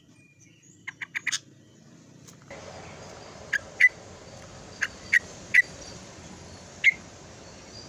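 A trucuk (yellow-vented bulbul) calling in short, sharp notes: a quick run of three about a second in, then single and paired notes roughly a second apart. A steady background hiss comes in partway through.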